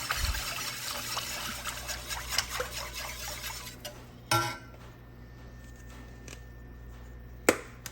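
Whisk stirring chicken stock into a roux in a pot: quick scraping and sloshing of the liquid for about four seconds, then a clink of the whisk against the pot and much quieter stirring, with one sharp knock near the end.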